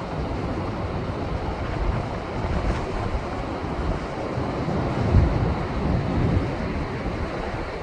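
Heavy post-typhoon surf rushing and washing against rocks, with wind buffeting the microphone as a low rumble. A louder surge comes about five seconds in.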